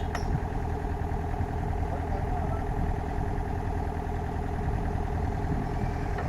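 Mahindra Yuvo 575 tractor's diesel engine running steadily at a constant speed, with no revving.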